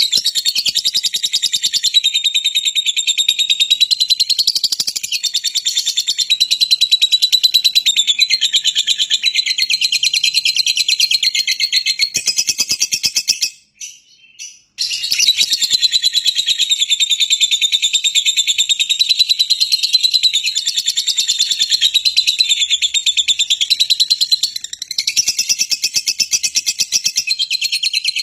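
Lovebird (Agapornis) chattering in a continuous, fast, high-pitched stream of chirps, with a short break about halfway through.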